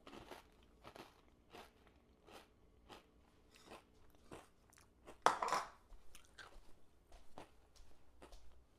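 Quiet mouth sounds of a person eating Greek yogurt: soft chewing and smacking clicks, about one or two a second. One louder sound lasts about half a second, about five seconds in.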